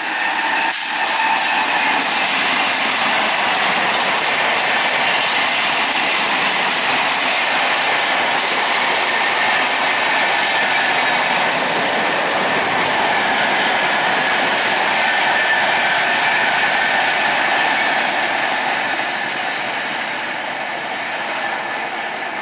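Electric-locomotive-hauled passenger train passing close by: a loud, steady rush of wheels on rail with clickety-clack over the rail joints and a sharp clack about a second in. The sound fades gradually near the end as the train moves away.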